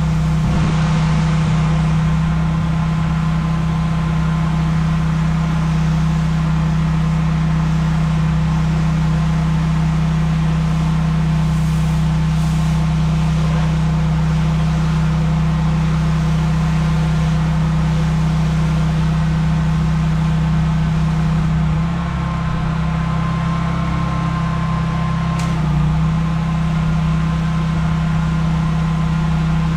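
Pressure washer running steadily with a constant engine hum; the hum shifts for a few seconds about two-thirds of the way through, then settles back.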